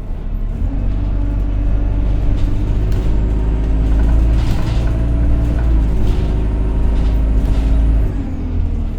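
Alexander Dennis Enviro200 single-deck bus under way, heard from inside: a deep engine rumble with a steady whine on top, the 'loud hoover' whine, climbing a little as the bus pulls, then dropping away near the end as the driver eases off.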